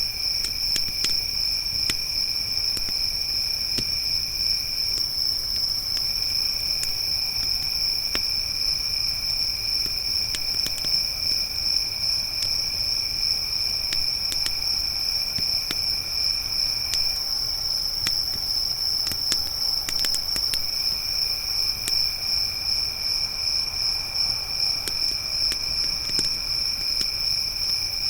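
Crickets trilling steadily, one high continuous trill with a lower second trill that pauses twice, over a campfire crackling with scattered small pops.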